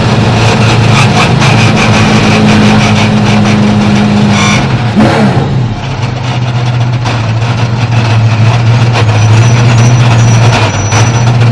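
Race car engine heard from inside the cabin, running steadily at low speed. Its revs fall about five seconds in and then hold lower as the car slows, with a steady patter of clicks throughout.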